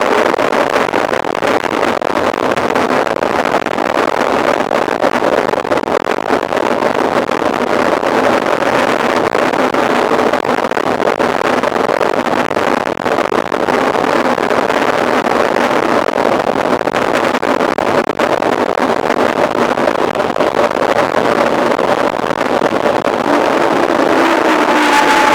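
Steady rushing noise of wind and tyres while a mountain bike is ridden at speed in a race, picked up by a camera on the bike or rider.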